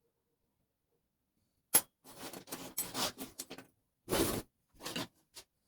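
Small metal parts from a dismantled fuse switch clinking and rattling as they are handled: a sharp click, then a run of irregular clinks, a longer rattle about four seconds in, and a few last ticks.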